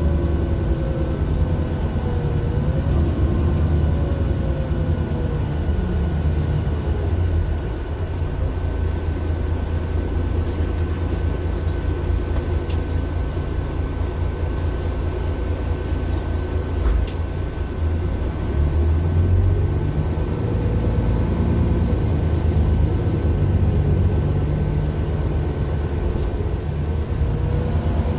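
Mercedes-Benz Citaro LE city bus with its Daimler OM 457 hLA straight-six diesel and ZF six-speed automatic, heard from inside the bus while it drives. The engine note falls over the first few seconds and rises again a little after halfway, over a steady high whine.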